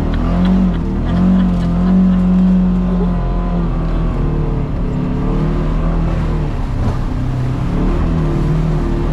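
Side-by-side utility vehicle engine running on a trail, engine speed rising and falling as it climbs and slows over uneven ground, loudest in the first few seconds.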